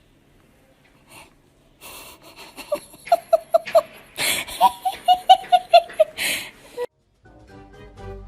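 A person laughing hard: two runs of quick, rhythmic 'ha' pulses, about five a second, each run ending in a wheezing in-breath.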